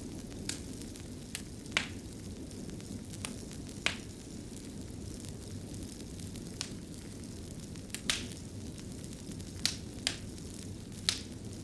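Wood fire in a fireplace crackling: a steady low rumble of burning with sharp, irregular pops every second or two.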